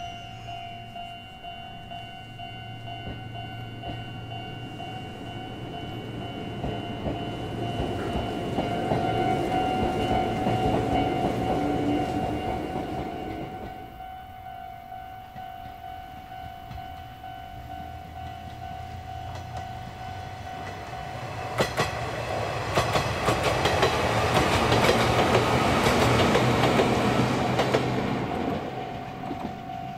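Electric train running on the track. The rumble swells between about 8 and 13 seconds and dies away, then swells again from about 22 seconds as the train passes close, with a quick run of wheel clicks over the rail joints. A steady tone sounds underneath throughout.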